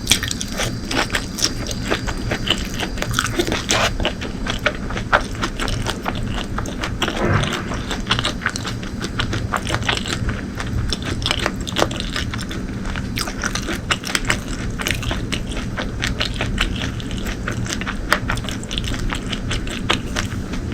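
A person chewing and biting food close to the microphone: a dense, continuous run of small wet clicks and crunches.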